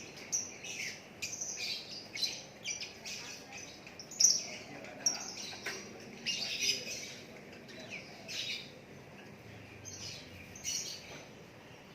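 Songbird calling with quick runs of short, sharp chirps and squawky notes, loudest about four seconds in and sparser near the end.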